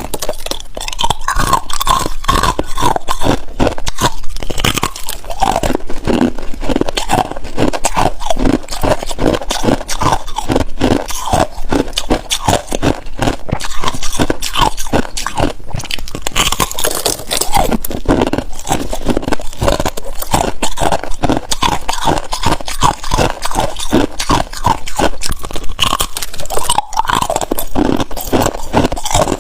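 Ice being bitten and chewed: loud, rapid, continuous crunching and cracking, several crunches a second.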